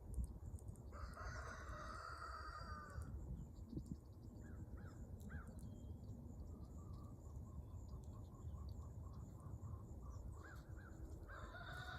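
Rooster crowing faintly, twice: one long call about a second in and another near the end, with a few short bird chirps between.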